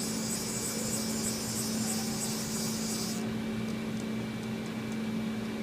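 CNC vertical mill humming steadily while its Y axis is jogged by handwheel, with a high hiss that stops about three seconds in.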